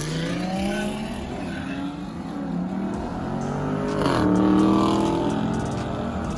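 Car engine accelerating, its pitch climbing steadily after a shift. About four seconds in comes a louder burst of revs that then falls away.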